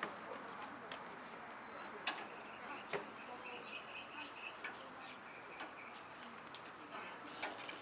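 Birds chirping over a steady background hiss, with a few sharp knocks, the loudest about two and three seconds in.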